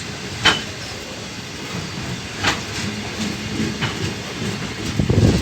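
The last wagons of a freight train rolling past, their steel wheels clicking sharply over rail joints a few times against a steady rolling noise. A low rush of noise swells near the end.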